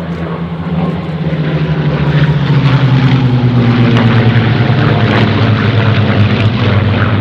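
Piston-engined warbird fighter making a fast, loud display pass: the propeller engine grows louder over the first couple of seconds, then its pitch drops as the aircraft goes by.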